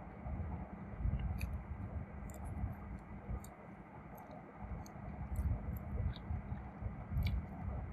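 Close-miked chewing of crunchy food, with sharp crisp crackles every second or so over soft, irregular chewing thumps.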